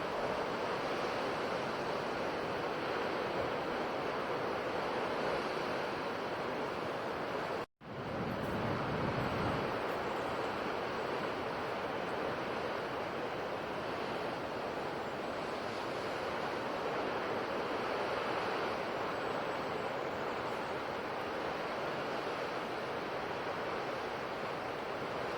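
Sea waves washing on a shore: a steady rush of surf, which drops out for an instant about eight seconds in and comes back with a deeper surge.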